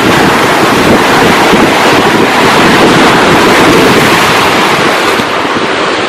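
Sea surf rushing and washing, with strong wind buffeting the microphone in a low, flickering rumble. The sound eases slightly near the end.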